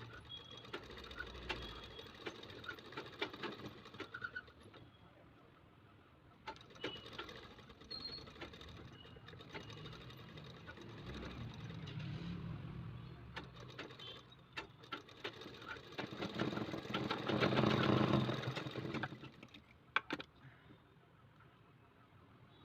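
Sewing machine stitching in short runs, with scattered clicks between them; the longest and loudest run comes about three quarters of the way through.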